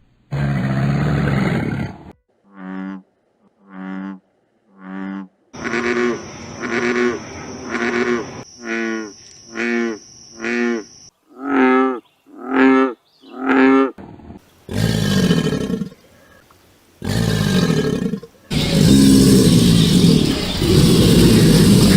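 A series of wild animal calls cut one after another: first a noisy call, then three short pitched calls followed by a fast run of a dozen or so pitched barks or croaks, more than one a second, then several loud deep roaring bellows.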